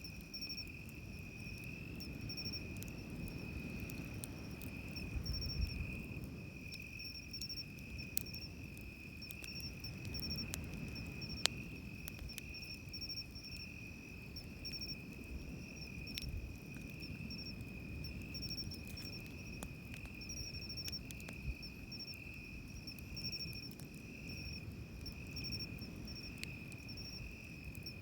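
Night insects singing: one keeps up an unbroken high trill while another chirps in short repeated bursts higher up, over a low wash of surf. Sharp crackles from the campfire break in now and then.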